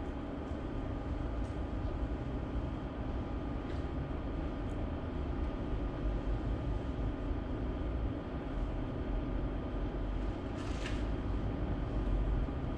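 Steady low rumble with a faint hum, like a vehicle or machinery heard from inside, and a brief hiss near the end.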